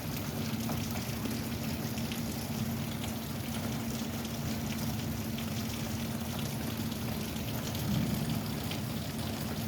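Steady rain falling, with fine drip ticks, over a steady low hum.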